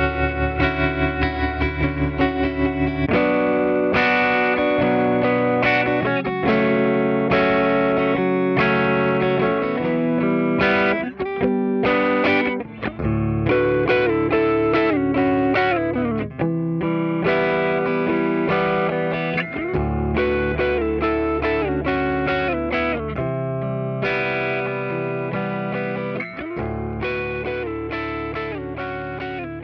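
Electric guitar played through a Fractal Audio amp-modeler preset, with distorted chords that ring out and change every second or two. For about the first three seconds the sound pulses quickly, about five times a second.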